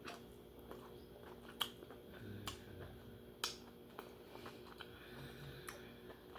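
Faint close-up chewing with scattered sharp, wet mouth clicks about a second apart, from a person eating lobster. A steady low hum runs underneath.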